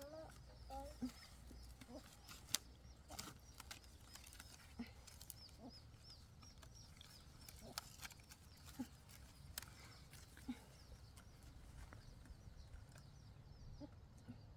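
Mostly quiet handling of a caught chicken while a string is tied around it: a few sharp clicks and small rustles, with faint high chirping in the background.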